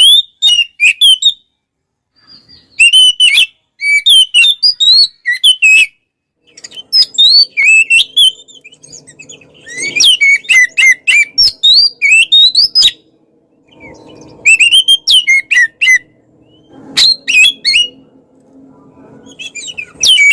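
Oriental magpie-robin (kacer) singing loudly in rapid, varied whistled phrases, in bursts of a second or more separated by short pauses.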